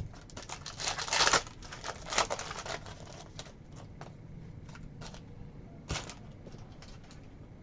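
Trading cards being handled and flipped through by hand: a few short papery swishes, the longest about a second in, with light clicks and taps between them.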